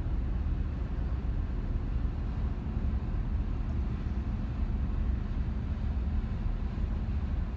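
Steady low rumble of harbourside background noise, with a faint constant hum above it.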